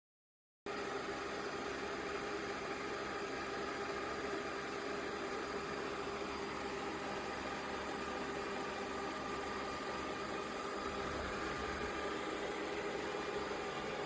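Yeedi M12 PRO+ robot vacuum running with a steady motor whir and a faint hum, cutting in abruptly under a second in.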